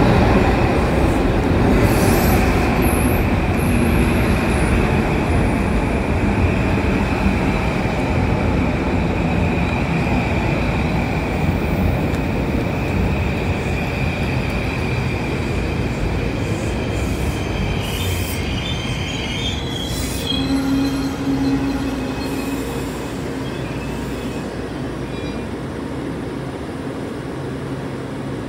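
Metro-North M8 electric multiple-unit train rolling slowly into a station and coming to a stop, with a continuous rumble of wheels on rail and a steady high-pitched squeal of wheels or brakes that ends about twenty seconds in as the train halts. After that the sound settles to a quieter, steady hum.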